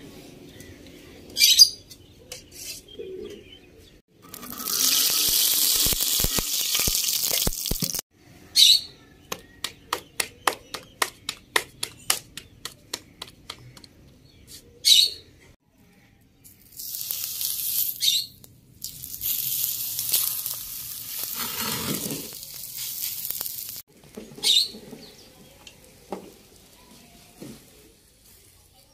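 Short, sharp bird calls repeating every few seconds. Between them come two stretches of steady hiss that start and stop abruptly, and a run of quick clicks, about three a second.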